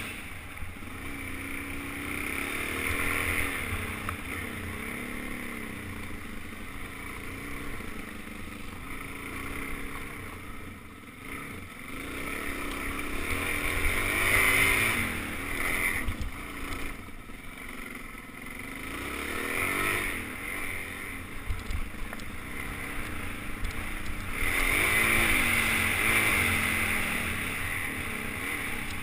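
Suzuki DR-Z400's single-cylinder four-stroke engine on a trail ride, its pitch rising and falling with the throttle, swelling louder several times as the rider accelerates.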